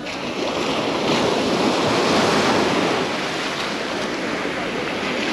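Sea waves breaking and washing up on a sandy beach shore: a steady surf hiss.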